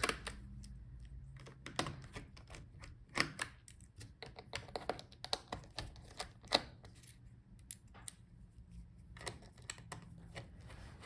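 Small screwdriver taking out the battery screws inside an opened laptop: scattered, irregular light clicks and taps of the bit and screws against the chassis.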